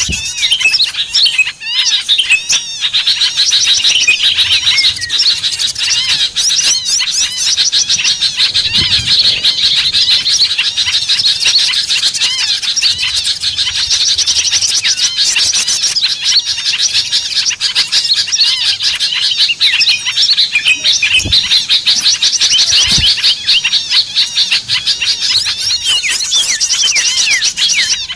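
Dense chorus of many small songbirds chirping and chattering at once in fast, overlapping trills, a small-bird lure call (suara pikat) used to draw wild birds down.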